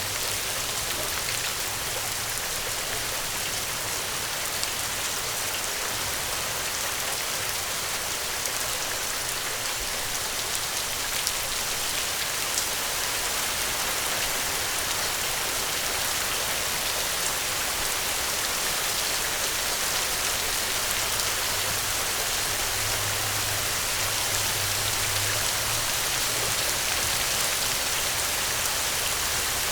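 Steady rain falling: an even hiss of rain with scattered drop taps, holding a constant level throughout.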